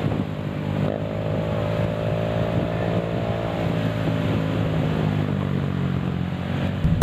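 Engine running steadily, with a second, higher engine tone joining about a second in and slowly dropping in pitch.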